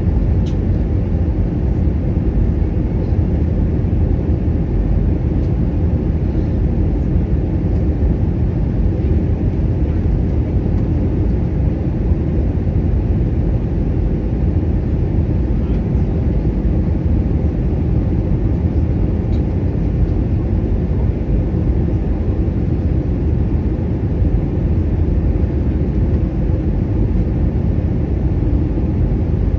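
Airbus A320 airliner in flight, a steady low rumble of engines and airflow with a faint constant hum on top.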